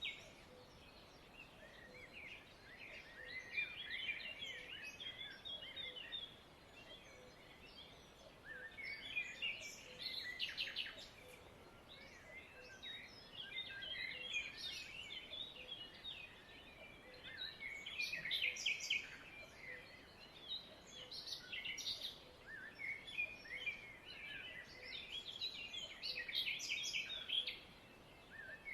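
A flock of small birds chirping and chattering together. The calls come in busy bouts of a few seconds with short quieter gaps between them.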